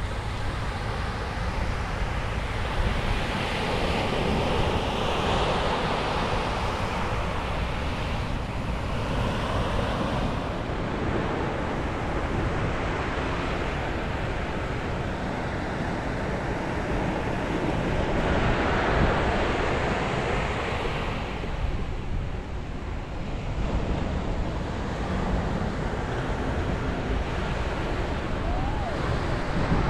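Ocean waves breaking and washing on a beach, the surf swelling louder twice, with wind rumbling on the microphone.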